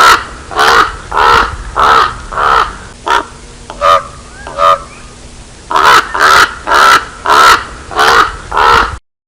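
Raven calling: loud, harsh caws in a quick series, about one and a half a second, with a few softer calls during a short lull in the middle, then a second series.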